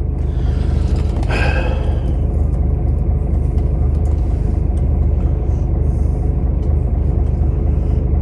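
Truck's diesel engine running steadily, a constant low rumble heard inside the cab.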